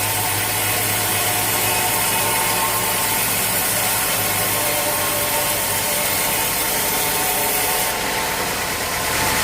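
A sawmill saw cutting steadily through a teak log: a continuous rasping, sawing noise over the steady hum of the mill's motor.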